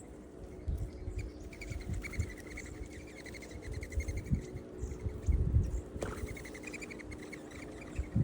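Insects trilling steadily in a high, fast-pulsing chorus, with irregular low thumps and rumbles close to the microphone, the heaviest about five seconds in.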